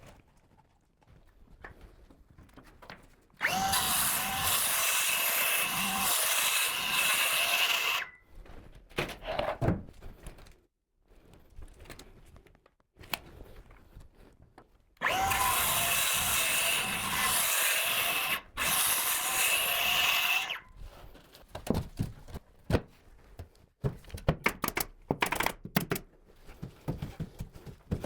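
Electric drill running in two steady runs of about five seconds each, its pitch wavering a little under load, followed by a series of short clicks and knocks near the end.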